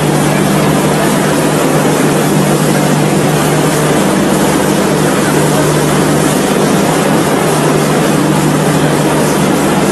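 Indian Railways passenger coaches rolling past at close range, a loud, steady running noise with a low hum underneath.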